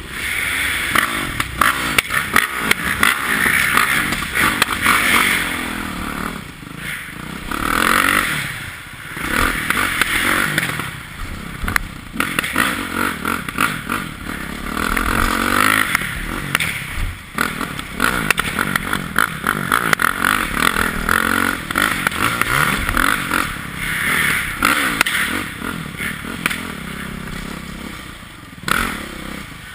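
Yamaha YZ450F four-stroke single-cylinder dirt bike engine revving hard and backing off over and over as it is ridden, its pitch rising and falling every couple of seconds. Clattering and thumps run through it.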